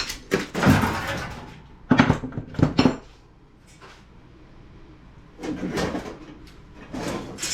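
Clattering knocks and rattles of scrap radio parts being handled and set down on a work surface. They come in three clusters, with a quieter pause in the middle.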